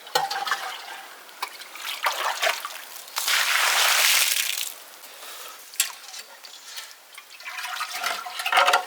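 Water being scooped and emptied out of an old cattle trough: a series of short splashes, with one longer gush of poured water about three seconds in.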